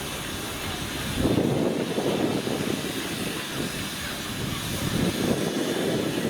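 Steam locomotive at a station, steam hissing, growing louder and rougher about a second in with uneven surges.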